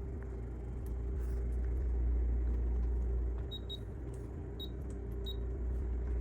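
Steady low hum with a faint steady tone above it, and four short, faint high beeps in the middle.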